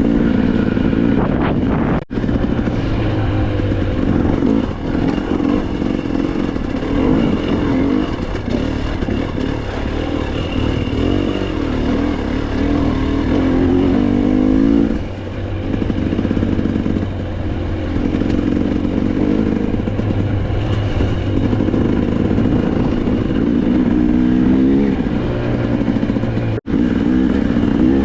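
Dirt bike engine running under constantly changing throttle while riding rocky single track, the revs rising and falling, with two climbing revs in the second half. The sound cuts out for an instant twice, about two seconds in and near the end.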